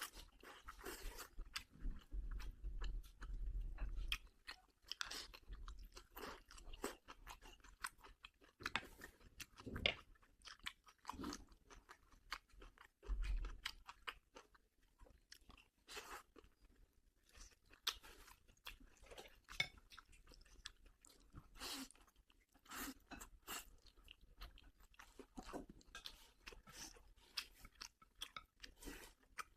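A person chewing and eating close to the microphone: irregular wet smacks and small clicks of mouth sounds, with a couple of low thumps.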